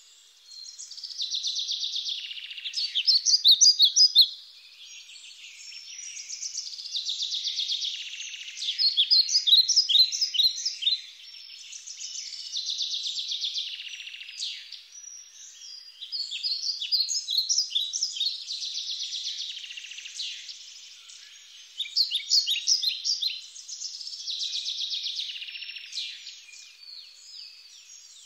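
Songbirds singing in repeated phrases a few seconds apart, each ending in a quick run of sharp, high notes.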